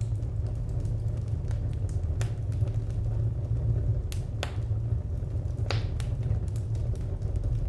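Wood fire crackling: irregular sharp pops and snaps, a few louder ones, over a steady low rumble of burning.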